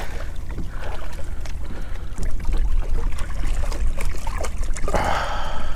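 Water trickling and lapping around a kayak, over a steady low rumble and small scattered knocks. A brief, louder rush of noise comes near the end.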